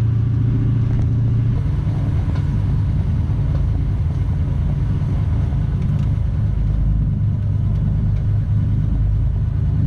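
Chevrolet Chevelle's engine running steadily at low speed with a deep, even drone; its pitch shifts slightly about a second and a half in.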